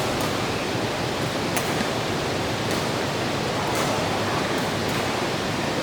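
Steady hiss of heavy rain, with a few faint sharp ticks.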